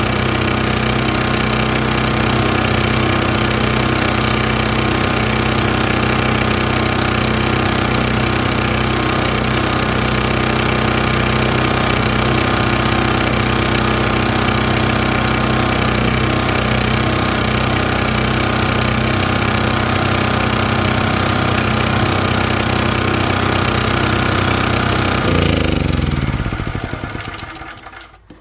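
Champion portable generator's small engine running steadily on a freshly fitted spark plug, then winding down in pitch and stopping near the end.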